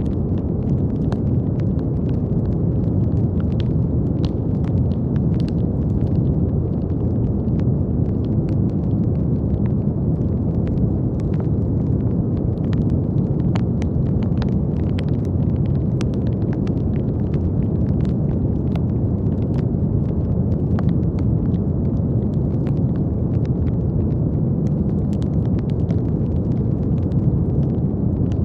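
Brown noise: a steady, deep, even rumble of noise weighted to the low end, with faint scattered clicks throughout.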